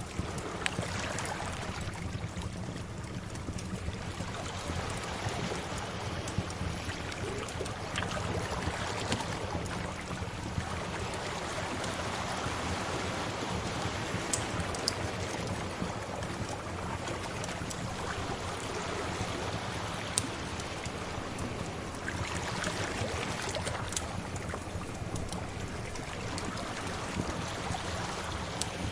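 Sea waves washing in and out in slow swells, with a wood fire crackling over them in scattered sharp pops.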